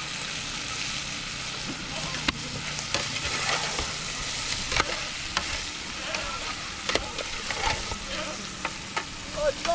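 Food sizzling steadily as it fries in a pot over an open fire, with scattered sharp clicks and ticks through it.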